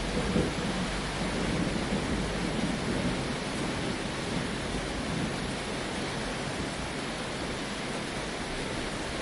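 Steady rain pattering on a tin roof, an even hiss, with a low thunder rumble that fades out over the first few seconds.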